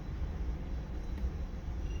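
Steady low rumble under a faint even hiss, with no distinct event.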